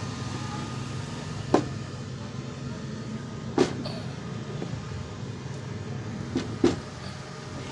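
Flux-cored MIG welding machine switched on and running, its cooling fan giving a steady low hum. Over it come sharp knocks: one about a second and a half in, another a couple of seconds later, and a quick pair near the end.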